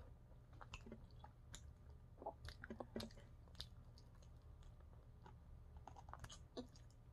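Faint close-up chewing of a sauced buffalo chicken wing, with scattered short mouth clicks. It is busiest about two to three seconds in and again around six seconds.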